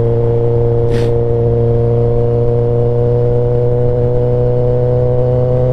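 2022 Kawasaki ZX-10R's inline-four engine idling steadily through an SC Project S1 exhaust. A short hiss comes about a second in.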